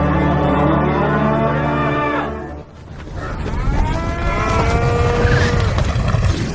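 Cattle mooing in two long calls. The first has a low, steady pitch and ends about two and a half seconds in; the second follows after a brief break, its pitch bending up and down.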